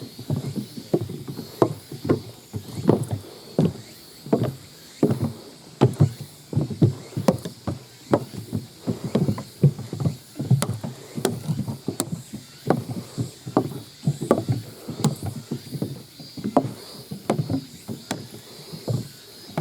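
An old camcorder's loose flip-out monitor clattering with each step as the hiker walks downhill, along with footfalls on the trail: about one and a half knocks a second, some with a sharp click on top.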